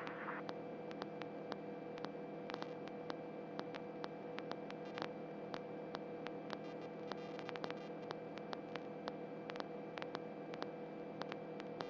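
Faint steady electrical hum and static on the helicopter crew's intercom audio line, with scattered faint clicks between transmissions.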